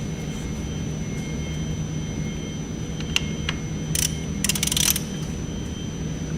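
Serpentine belt and tensioner being worked by hand onto the engine's harmonic balancer pulley: a couple of sharp clicks about three seconds in, then a short rattling scrape around four to five seconds in, over a steady low hum.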